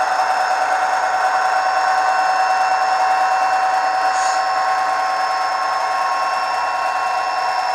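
Sampled EMD diesel prime mover of an SD45 played by an ESU LokSound decoder through the HO-scale model's small speaker, running steadily.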